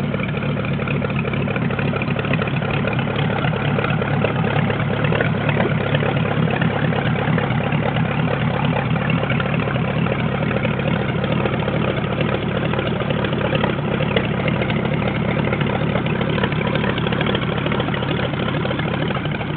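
Ford flathead V8 idling steadily, an even, unchanging engine note.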